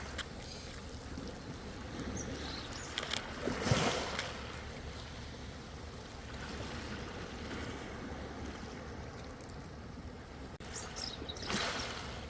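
Ocean waves washing in, with a steady wash of water and two louder surges, one about four seconds in and one near the end, plus small splashes in between.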